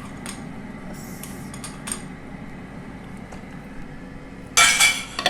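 Metal spoon knocking against a cooking pan and its utensils while honey is spooned into the sauce: a few light clicks, then one louder clatter about four and a half seconds in.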